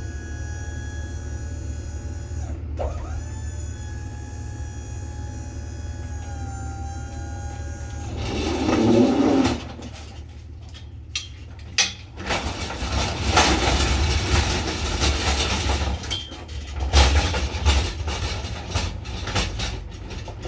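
A delivery truck's engine runs with a steady low rumble and whine. About eight seconds in a loud burst of noise comes, followed by irregular clattering and rattling as the freight is handled.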